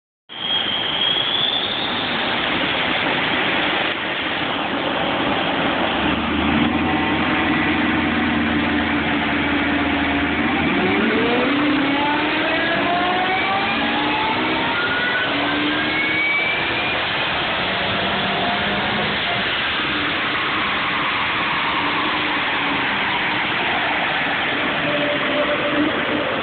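Supercharged Ford Boss 260 5.4-litre V8 in a BA Falcon XR8 ute running on a chassis dyno's rollers, with a loud steady mix of engine and roller noise. About ten seconds in, the engine note climbs in pitch for roughly seven seconds in a full-throttle power run, then falls away as it winds down.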